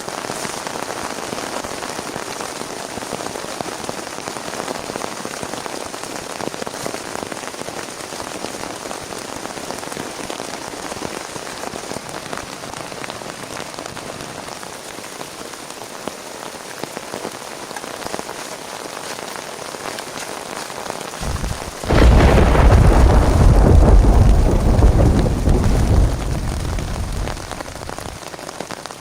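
Steady heavy rain falling. About two-thirds of the way through, a loud, sudden clap of thunder breaks in and rumbles on for several seconds before fading back under the rain.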